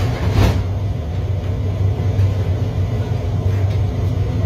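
Steady low rumble inside a metro train carriage, with a brief clack about half a second in.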